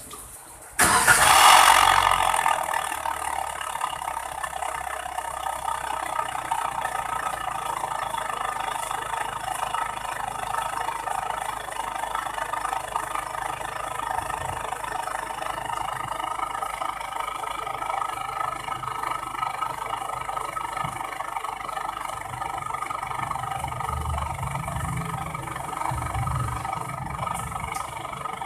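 Car engine starting just under a second in, loudest for a moment as it catches, then idling steadily through a homemade welded exhaust: a pipe with an internal baffle, built to test what exhaust note it gives.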